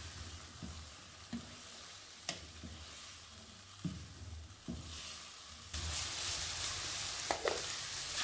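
Diced potatoes, peas, carrots and cauliflower sizzling as they fry in oil on high heat, stirred with a wooden spatula in a nonstick pan, with a few scrapes and taps of the spatula against the pan. The sizzle grows louder a little past the middle.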